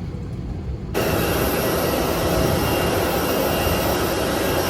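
Low rumble inside an airliner cabin, then about a second in a loud, steady jet-engine rush starts abruptly and stops just as abruptly near the end.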